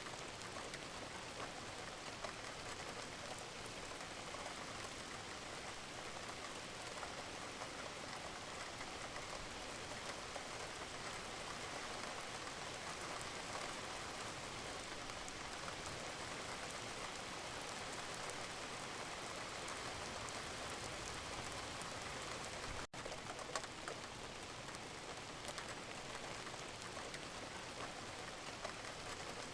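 Steady rain falling, an even hiss flecked with scattered drop ticks. The sound cuts out for an instant about three-quarters of the way through.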